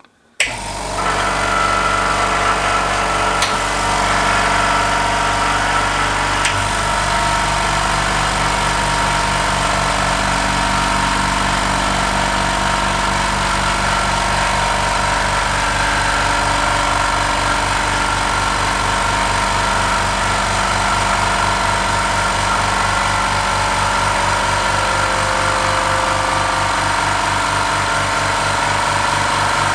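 HBM 6 PK 150-litre low-noise oil-free compressor starting up from an empty tank and running steadily as it pumps the tank up from 0 bar. It starts suddenly just under half a second in, with two short clicks about three and six seconds in.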